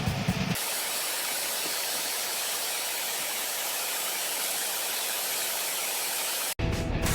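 A steady, even hiss with almost no low rumble, starting about half a second in and cutting off suddenly near the end.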